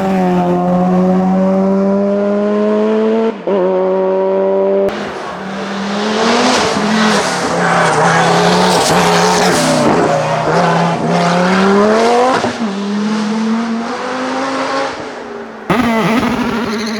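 Hillclimb race car engines at high revs, the pitch rising and dipping as the cars accelerate and shift, with several sudden jumps where the footage cuts from one car to another. From about five to twelve seconds a loud rushing noise, typical of tyres at speed, sits over the engine.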